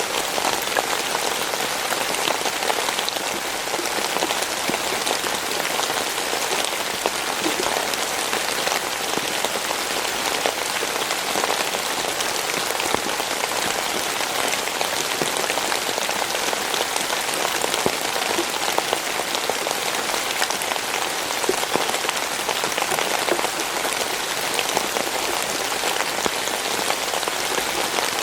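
Steady rainfall, a dense even hiss of drops hitting surfaces with many small ticks of individual drops.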